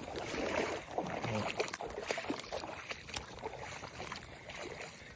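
Shallow creek water sloshing and splashing, with scattered small knocks and clicks, as someone wades and handles a fish in the water.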